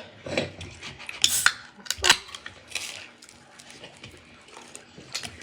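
Cutlery and plates clinking: a few separate sharp clinks of utensils against dishes.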